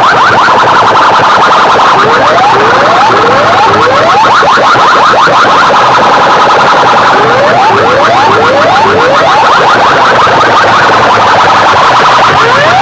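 Loud DJ sound system blasting an electronic siren-like effect of rapid rising chirps, several overlapping at once, over a dense band of tone.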